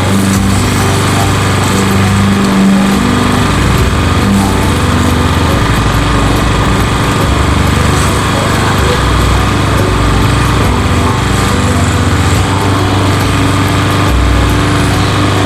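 Walk-behind lawn mower's PowerMore 140cc single-cylinder engine running steadily while cutting grass. It now keeps running after a carburetor cleaning cured its start-then-die fault.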